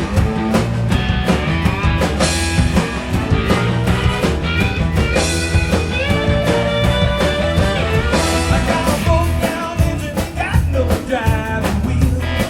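Rock band playing, with electric guitar over a steady drum beat.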